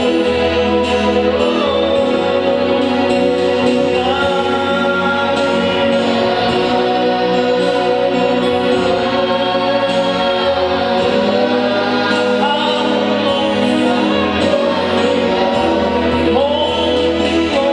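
Congregation and choir singing a slow gospel worship song with instrumental accompaniment, voices sustaining long notes.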